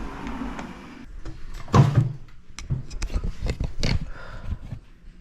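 A series of knocks and clunks, the loudest about two seconds in.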